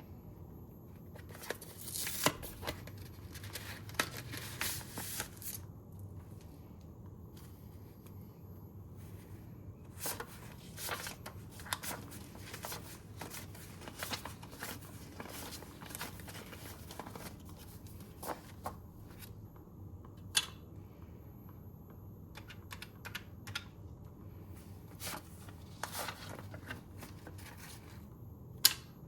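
Paper and plastic being handled close up: cash envelopes and bills rustling and crinkling in short irregular bursts, with a few sharp clicks.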